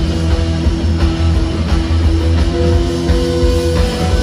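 Post-punk rock music with electric guitars, bass and drums, in an instrumental gap between sung lines.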